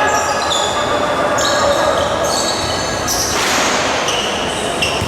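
Basketball game in an arena hall: sneakers squeaking repeatedly on the court and the ball bouncing, over steady crowd noise, with a brief swell of noise about three and a half seconds in.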